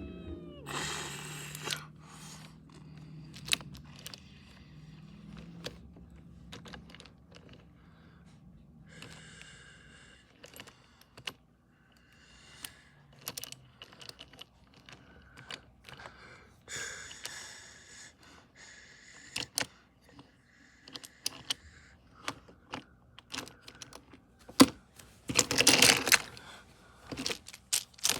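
Irregular clicks, taps and light rattles of small hard objects being handled, with a brief louder rustle about 26 seconds in.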